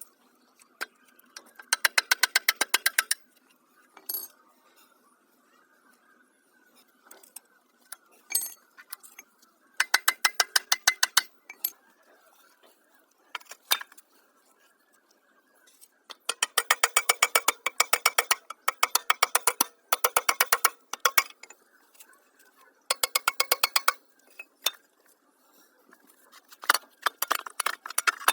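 Bursts of rapid, evenly spaced metallic clicking, each lasting about a second, repeated several times with pauses between them, from hand-tool work on an old refrigerator compressor.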